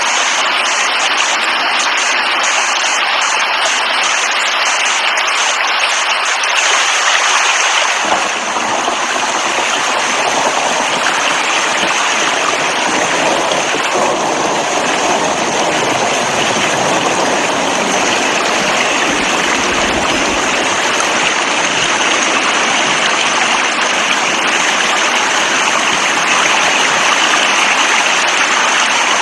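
Steady heavy rain, a dense hiss with no let-up. About eight seconds in it changes to a fuller, deeper rush.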